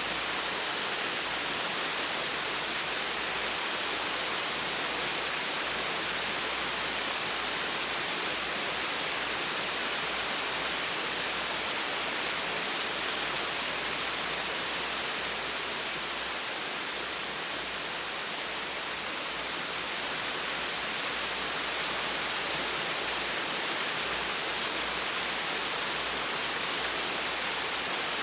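Small waterfall splashing: a steady, even rush of falling water.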